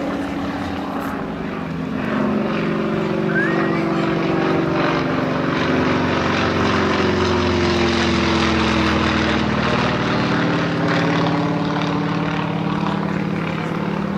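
Propeller aircraft engine droning in flight overhead, one tone in it falling in pitch as it passes.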